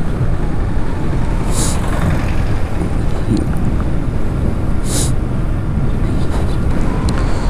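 Motorcycle riding noise: wind rushing over the action-camera microphone and the bike's engine running steadily underneath. Two short hisses come about three seconds apart.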